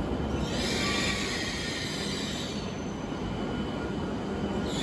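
E7 series Shinkansen train rolling slowly into the station platform on arrival: a steady low rumble, with a high squeal that sets in about half a second in, fades out around two and a half seconds, and comes back near the end.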